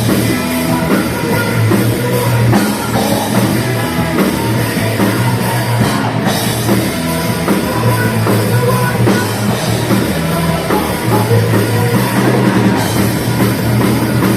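Crossover thrash metal band playing: fast rock drumming with heavy, distorted guitars and bass.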